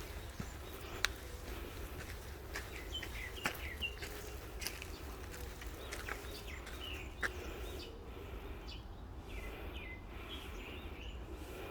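Songbirds chirping in short runs of quick falling notes, several times over, with a few sharp clicks and a steady low rumble underneath.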